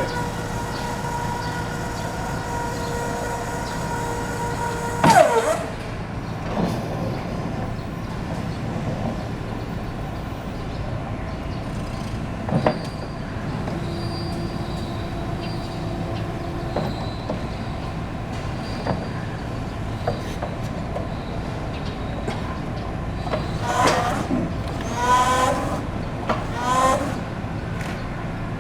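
Toyota 7FBE18 electric forklift running: a steady electric motor whine that winds down with a falling pitch about five seconds in, then a few sharp clicks, and several short squeals near the end.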